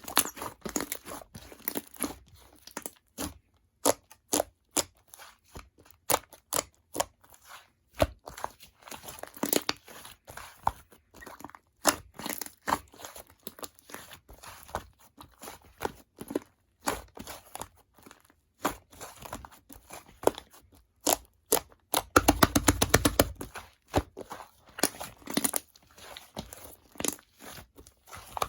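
Slime being squeezed, poked and stretched by hand, making irregular crackling clicks and pops, with a quick dense run of pops about three quarters of the way through.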